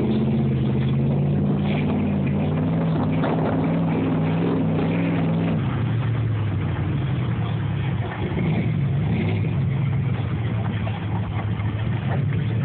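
Truck engine held at steady high revs for about five and a half seconds, then easing off to a lower, rougher run.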